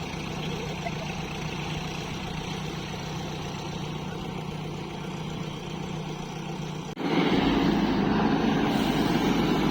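Diesel engine of heavy farm machinery running steadily. About seven seconds in it cuts abruptly to a louder, fuller engine sound.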